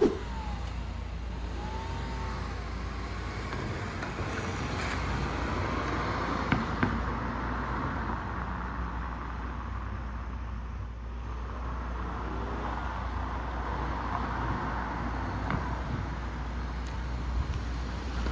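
Ford Mondeo ST24's V6 engine running steadily, with a short sharp knock about six and a half seconds in.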